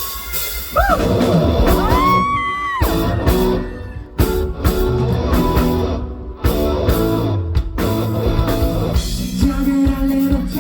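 Live pop-rock music over a loud sound system: a band with electric guitar and drums playing the song's intro, with a long held note that slides up about two seconds in.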